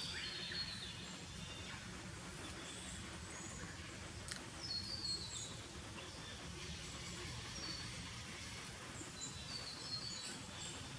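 Faint birdsong: several short runs of high notes stepping down in pitch, recurring every few seconds, over a steady low background noise. A single sharp click about four seconds in.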